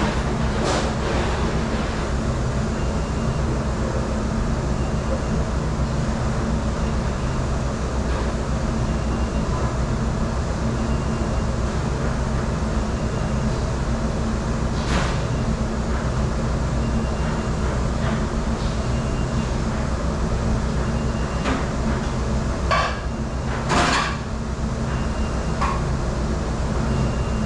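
Steady loud drone of commercial dish room machinery, with a few sharp clattering knocks about halfway through and again twice near the end.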